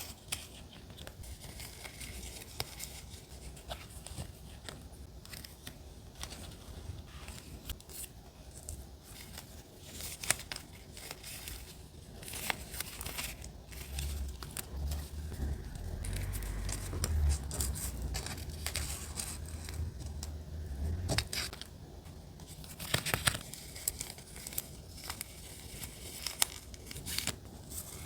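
Paper being handled for collage journaling: scattered tearing, scissor snips and crinkling, in short irregular bursts. A low rumble runs for several seconds in the middle.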